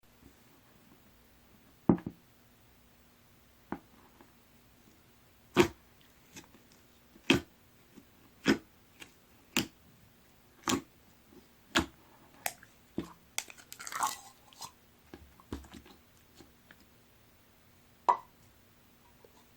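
Fishbowl-bead slime being pressed and poked, giving sharp, separate air-bubble pops about once a second, with a short run of crackling about two thirds of the way through.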